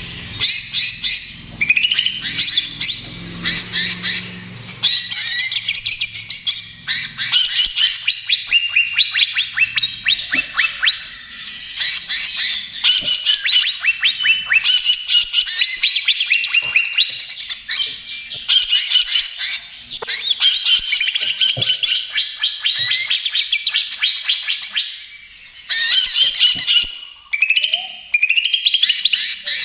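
Cucak ijo (green leafbird) singing in a rapid, unbroken stream of varied chirps, trills and whistles, with only brief pauses.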